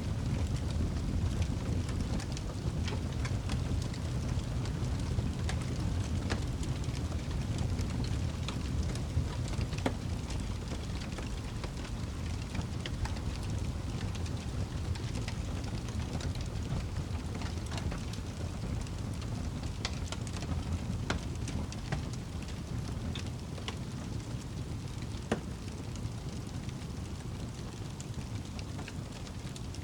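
Campfire crackling, with many small sharp pops scattered through it, over a steady low rumble.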